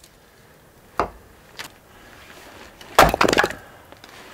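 Axe splitting firewood: a sharp strike on a log about a second in, then a louder strike about three seconds in, followed by a brief clatter of wood.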